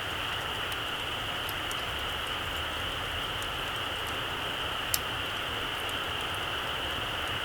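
Small campfire crackling: faint scattered ticks over a steady hiss, with one sharp pop about five seconds in.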